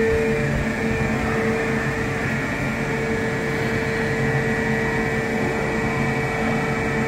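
Steady mechanical hum from the Ocean Express funicular train standing at the station platform, with a held mid-pitched tone and a fainter high tone over an even rumble.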